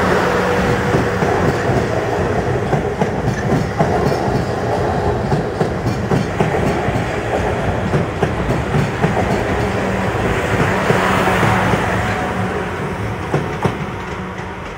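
South Western Railway Class 444 Desiro electric multiple unit passing over a level crossing. Its wheels clatter over the rail joints above a steady hum, and the sound fades near the end as it pulls away.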